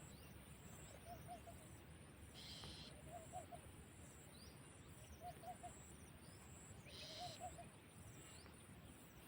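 Faint bird calls: a short low call of three or four quick notes, repeated about every two seconds, with a few brief higher chirps and a faint steady insect hiss behind.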